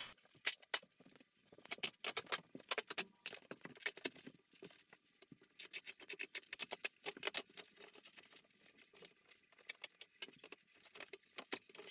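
Old carpet being pulled up off the floor, giving an irregular run of faint sharp crackles and clicks.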